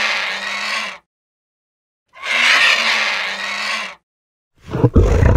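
Vulture calling twice, each a harsh, hissing screech nearly two seconds long with a pause between. Near the end a lion's deep roar begins.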